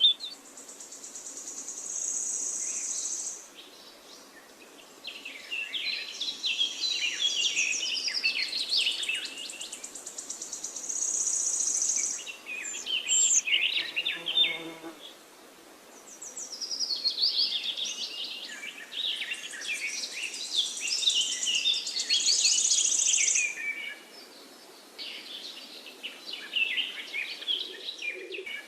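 Forest birds singing: overlapping chirping and warbling phrases from several birds. Between them come several high, steady buzzing trills, each lasting a couple of seconds.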